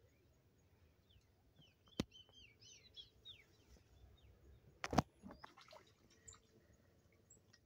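Small birds chirping faintly in a quick run of short rising and falling notes, with a sharp click about two seconds in and a louder knock about five seconds in.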